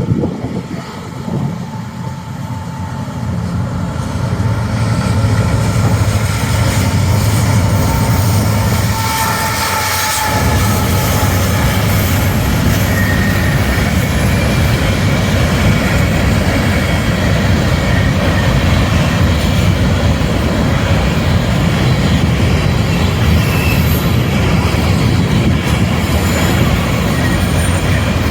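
Kansas City Southern diesel freight locomotives passing at speed, their engine drone building over the first few seconds, then, from about ten seconds in, a steady rush of freight cars rolling by on the rails.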